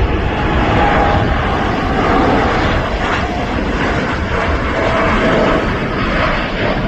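Boeing 747-8 freighter's four GEnx turbofans at takeoff thrust: a loud, steady jet roar with faint wavering tones above it, easing off slightly near the end.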